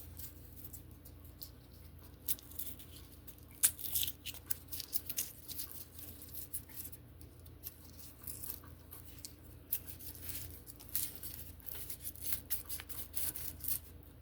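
Dry papery skin being peeled and picked off an elephant garlic clove by hand: soft, irregular crackling and tearing, busier from about two seconds in.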